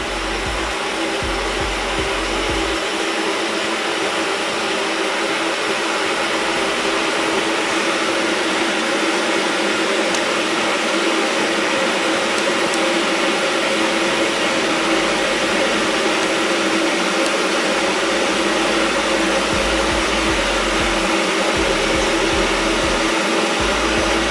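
A 3 kW stainless-steel electric kettle (Bosch Town) heating about a litre of cold water: a steady rushing hiss from the element that grows slowly louder as the water works toward the boil.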